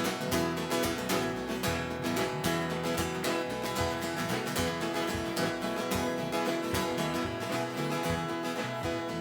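Instrumental break of a worship song: acoustic guitar strummed with a steady beat, with no singing.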